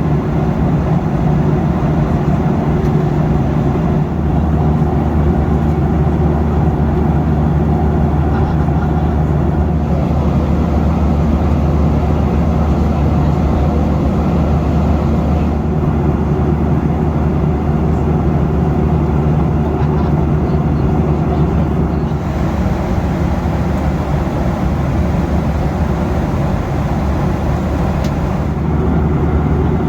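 Boeing 737 passenger cabin in flight: the steady roar of engines and airflow, with a constant low hum underneath.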